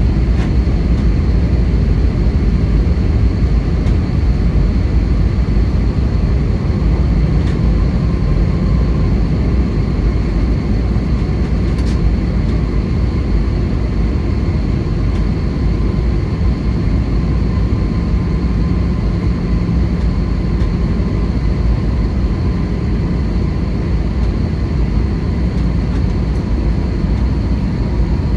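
Steady cabin noise inside an Airbus A320: a constant low rumble of engines and airflow, with a faint steady high whine.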